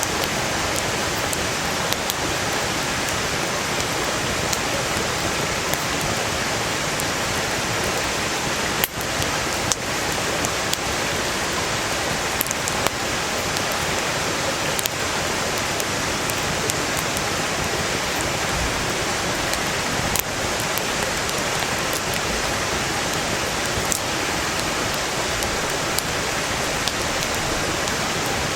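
A valley stream rushing steadily, with a wood campfire crackling and popping here and there over it.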